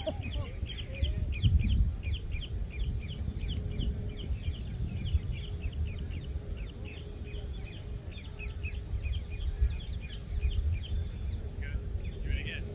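Birds chirping, several short high notes a second, over a steady low rumble; the chirping thins out near the end.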